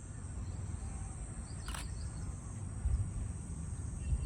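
Steady high-pitched insect trill, typical of crickets, over a low rumble of wind or handling noise, with one brief sharp sound a little under two seconds in.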